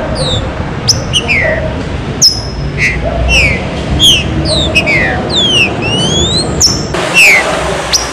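Green-winged saltators (trinca-ferro) calling: a stream of short, sharply falling chirps, about two a second, with a couple of rising whistles about two-thirds of the way through, over a steady low background noise.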